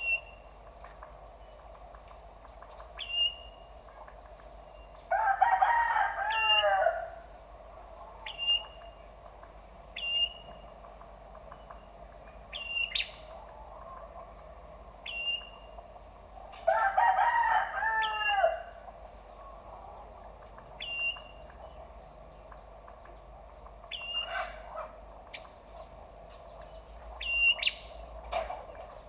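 A rooster crowing twice, about eleven seconds apart, each crow about two seconds long. Between the crows a small bird gives short, sharp single chirps every second or two.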